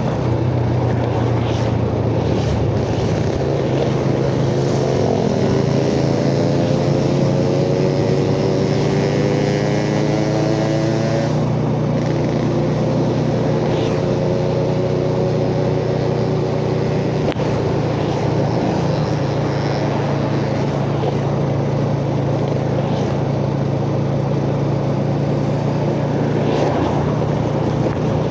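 Yamaha Jupiter Z underbone motorcycle's single-cylinder four-stroke engine running steadily while riding, heard from the rider's chest with road and wind rush. A higher engine note climbs in pitch from about four to eleven seconds in.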